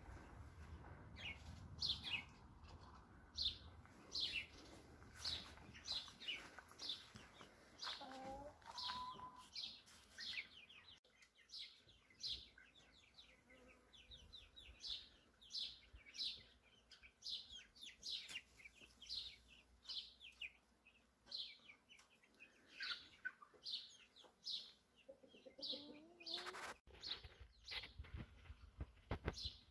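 A bird chirping over and over: short, high, falling chirps, about one or two a second, with a couple of lower rising calls in between.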